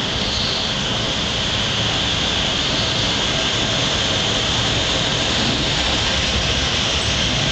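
Docklands Light Railway train pulling into a station platform: a steady hiss and rumble of wheels and running gear, with no sharp sounds.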